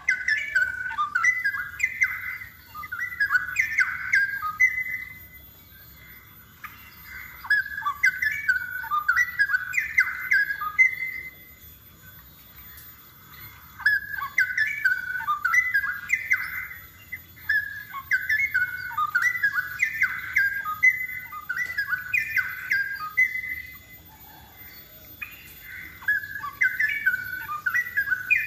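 Straw-headed bulbul (cucak rowo) singing vigorously: loud, rich, bubbling warbled phrases of a few seconds each, repeated five times with short pauses between.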